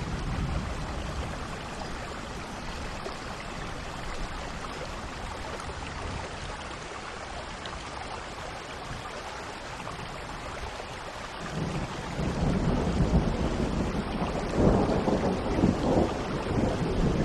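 Steady rain hissing, with thunder: a low rumble dies away at the start, and about two-thirds of the way through a new roll of thunder builds and grows loud near the end.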